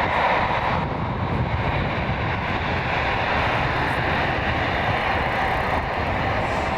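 Jet airliner's engines, a steady noise as the aircraft flies by.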